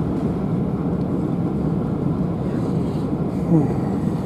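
Steady low rumble inside a Southeastern Class 375 electric multiple unit running at speed: wheels on rails and running noise from the carriage.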